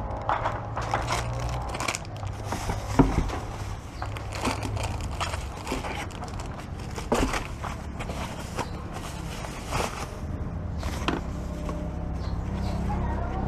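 Helmet packaging being handled during an unboxing: crinkling and rustling of wrapping and box with scattered clicks and knocks, the sharpest about 3 s in and about 7 s in, over a steady low background hum.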